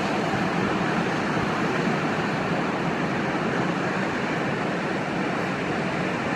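Sea surf: a steady, even wash of waves with no distinct single breaker standing out.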